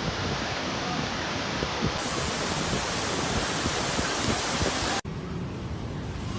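A steady rushing noise with no distinct events. It changes abruptly twice, about two and five seconds in, as one piece of footage cuts to the next.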